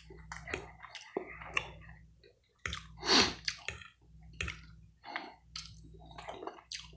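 Close-miked chewing of a bite of soft pancake with peach, with wet mouth clicks and smacks throughout and one louder burst about three seconds in.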